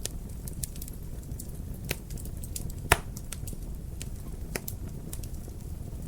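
Wood fire crackling in a fireplace: scattered sharp pops and snaps over a steady low rumble of the flames, with one loud pop about three seconds in.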